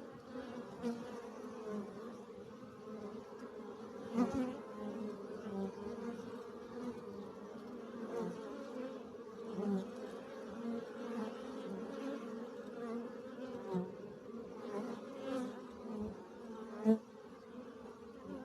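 Honeybees buzzing in flight, many workers at once, a steady hum. Single bees swell louder as they pass close by, most of all about four seconds in and near the end.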